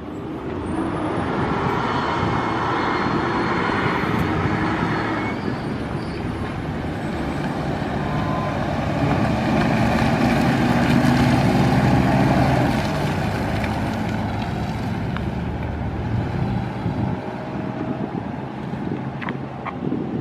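Engine of a 1997 Ford E-Super Duty box truck running steadily. It gets louder between about nine and thirteen seconds in, then settles back.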